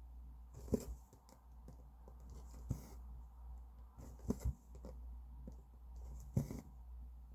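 Cross-stitching: a needle pushed through the fabric and thread drawn through, heard as soft taps and rustles every second or two over a low steady hum.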